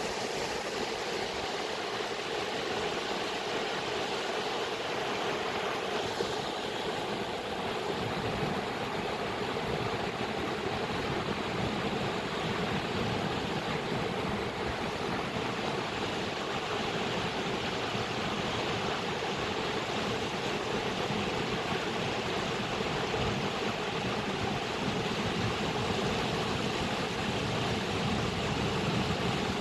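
Flowing water making a steady, even rush with no pauses or breaks.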